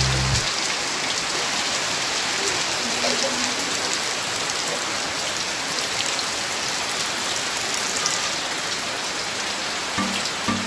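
Steady rain falling, a dense even hiss of drops with no let-up. Music stops just after the start and comes back in near the end.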